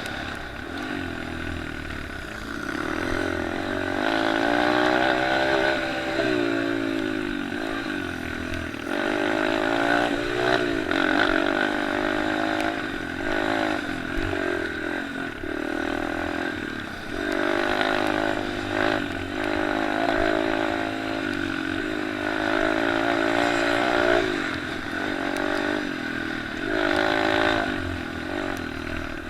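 Several small motocross and pit bike engines running together around a dirt track, their notes rising and falling as riders rev out and shift, blending into a constant buzz.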